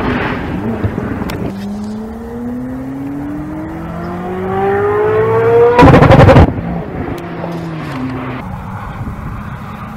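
Koenigsegg Jesko Absolut's twin-turbo V8 accelerating hard, its note rising steadily for about four seconds. About six seconds in comes a short, very loud burst of noise, then a lower engine note that fades.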